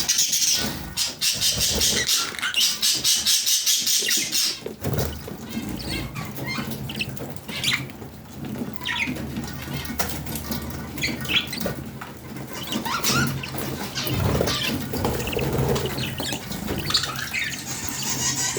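Small pet parrots chirping and squawking, with a fast, dense high fluttering for the first four seconds or so, then scattered short chirps.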